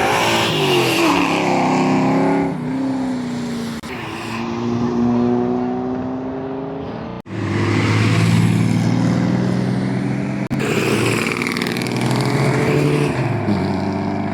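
Vehicle engines accelerating hard from standing starts, each climbing in pitch and dropping back at gear changes. The sound breaks off abruptly twice where separate takes are cut together.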